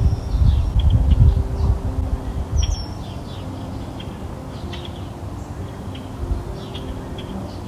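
Birds chirping in short, high, scattered calls over a few soft held low tones, with dull low thumps during the first three seconds.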